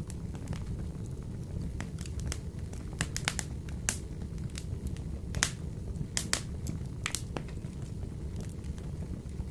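Wood fire burning in a wood stove, crackling with sharp snaps and pops over a steady low rumble. The pops come thicker and louder through the middle stretch.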